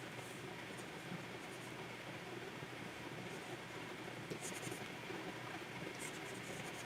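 Plastic pen nib scratching across a Wacom tablet's surface in short drawing strokes, clustered about a second in and again around four and six seconds in, over a steady faint hiss.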